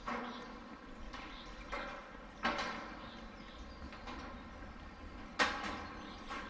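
Footsteps on a walkway, landing about once every two-thirds of a second, with two steps louder than the rest, about two and a half and five and a half seconds in.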